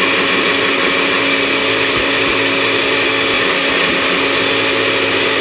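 Countertop blender motor running steadily at an even pitch, blending a milkshake.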